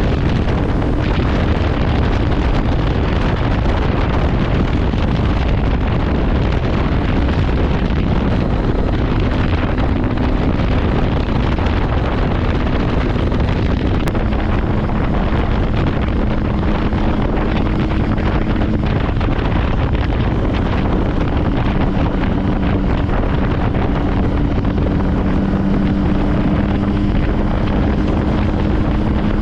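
Motorcycle riding at speed: the engine runs under heavy wind noise buffeting the microphone, its hum shifting in pitch now and then.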